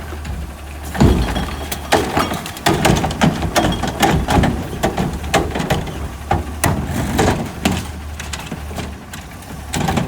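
Garbage truck engine running steadily under a long series of sharp knocks and clattering impacts, about two or three a second: a cart being slammed and emptied into the truck's hopper.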